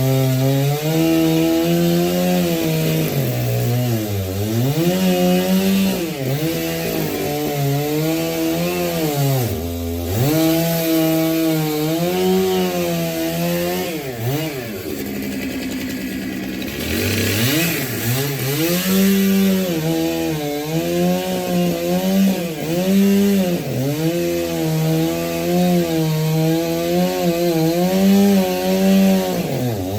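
Petrol chainsaw cutting wood, its engine pitch repeatedly sagging under load and climbing back as the chain works through the cut.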